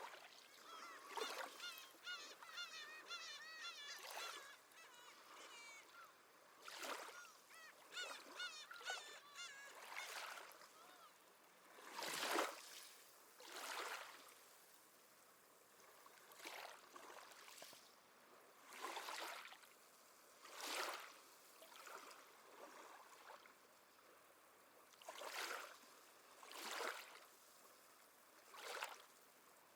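Seabirds calling, faint: short harsh calls repeated every second or two, irregularly, with a quick warbling twitter over the first several seconds.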